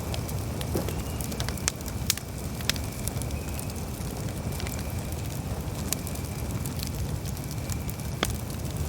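Wood campfire crackling, with sharp pops scattered through it over a low, steady rumble.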